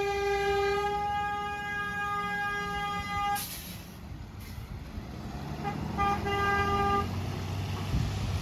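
Truck horn blowing one steady held note that cuts off sharply a little over three seconds in. After a pause it gives a couple of quick toots and a second blast about a second long, over low traffic rumble.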